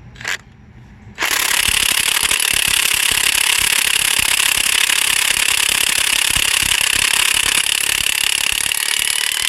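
DeWalt cordless impact wrench hammering steadily on a Ford 6.7 Powerstroke cylinder head bolt to break it loose. It starts about a second in, after a brief click.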